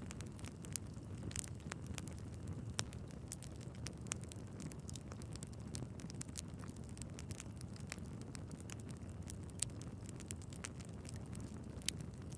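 Wood fire burning in a fireplace: a steady low rush of flames with frequent irregular crackles and pops from the logs, a few sharper pops standing out.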